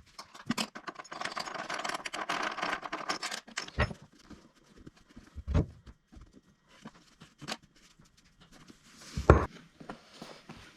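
Hands working on a motorcycle seat cover and its fastenings: about three seconds of scratchy rubbing and clicking, then four separate knocks, the loudest near the end.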